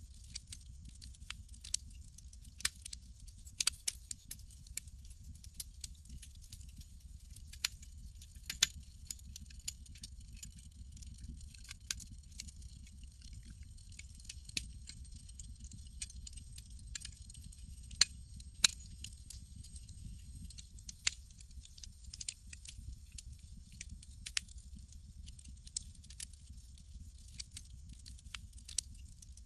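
Campfire crackling: irregular sharp pops and snaps over a low, steady rumble of burning wood.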